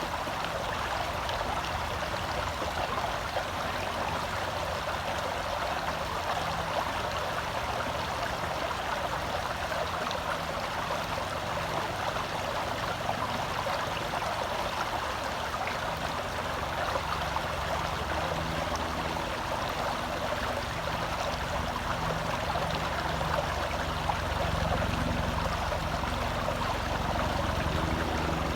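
Gentle forest stream flowing steadily, heard close to the water, a little louder in the last few seconds.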